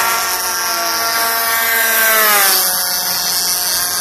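Small single-cylinder two-stroke gas engines (DLE 20cc) of RC warbird models in flight, a steady buzz whose pitch falls about two and a half seconds in as a plane passes or throttles back.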